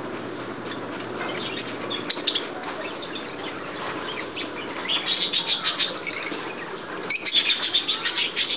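Birds chirping over a steady background din, with fast runs of loud, high chirps about five seconds in and again near the end.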